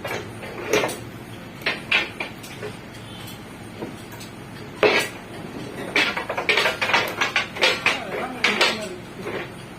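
Metal clanks and hammer strikes on steel: a few separate blows, then a quick run of strikes in the second half.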